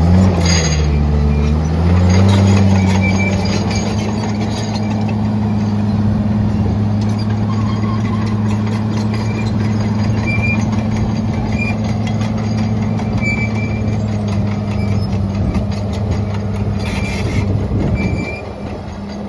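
Case 850L XLT crawler dozer's diesel engine working under load, its pitch sagging and recovering in the first two seconds, then holding steady. Over it, the steel tracks clank and squeal.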